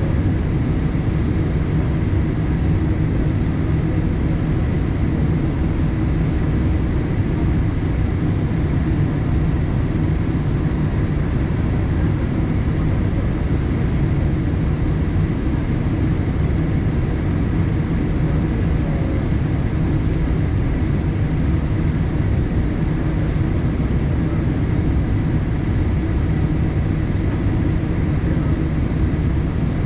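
Steady cabin noise of a Boeing 787-8 airliner in flight: an even, low rumble of engine and airflow noise with no changes.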